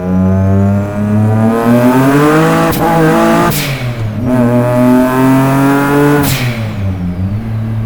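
Single-turbo Nissan 350Z VQ35 V6 pulling hard under boost through the gears: the engine note climbs, drops at each gear change, and climbs again. A short burst of hiss comes as the throttle closes at each break, and a high turbo whistle rises during the pulls. About six seconds in it lifts off, the whistle falls away and the engine settles to a steady lower note.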